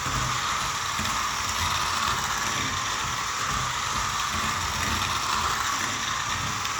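Battery-powered toy train running on its track, its small motor and gears making a steady mechanical whir.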